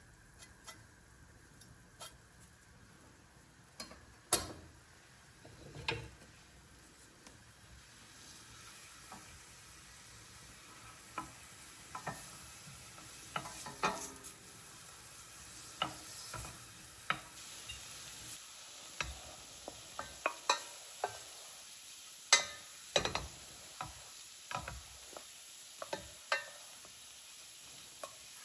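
A soffritto of chopped onion sizzling in butter and olive oil while being stirred, with sharp knocks of the stirring utensil against the pan. There are only a few knocks at first; the sizzle builds about a third of the way in and the knocks come more often.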